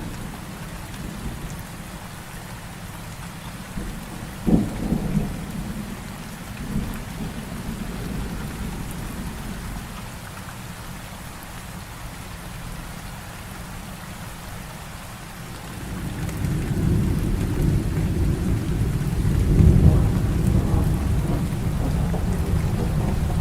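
Heavy rain falling steadily during a thunderstorm. A sharp thunderclap about four and a half seconds in is followed by a short rumble, and from about sixteen seconds a long, low roll of thunder builds, loudest near twenty seconds.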